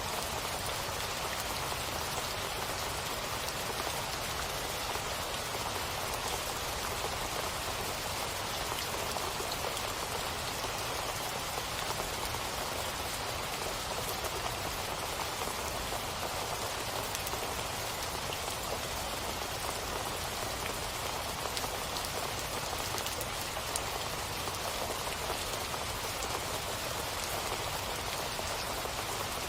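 Steady rain falling: an even hiss with scattered individual drop ticks and no change in level.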